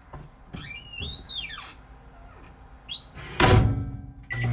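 A door: a squeaky creak that rises and falls in pitch about a second in, a shorter squeak near three seconds, then a heavy thud about three and a half seconds in.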